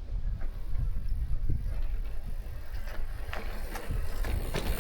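Mountain bike riding down bare granite rock: a continuous low rumble with scattered rattles and clicks, which come thicker near the end.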